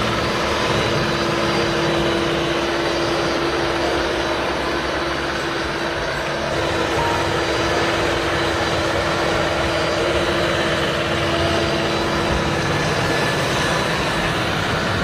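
Snowblower engine running steadily, a constant drone with an even hum through it.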